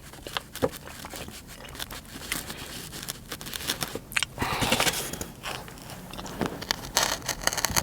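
Close-up eating sounds: chewing a sushi roll, with scattered small clicks, scrapes and crinkles from handling the food and its container.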